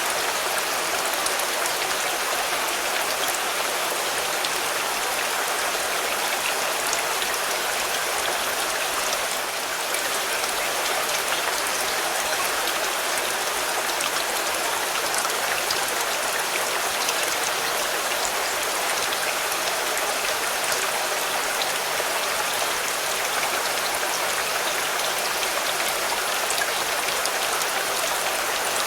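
Steady rain falling on a car: an even hiss of rain with individual drops striking the car throughout.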